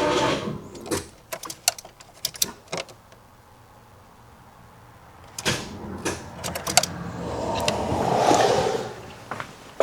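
The 1984 Chevrolet S10 Blazer's starter is cranking the 2.8 V6 slowly and dies out just after the start, followed by scattered sharp clicks and a short rushing noise near the end. The battery is completely dead and the cable connections are poor; the starter itself seems all right.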